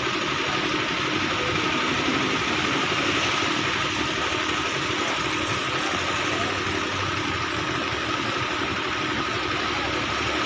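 A motor engine running steadily, with a faint constant whine over it.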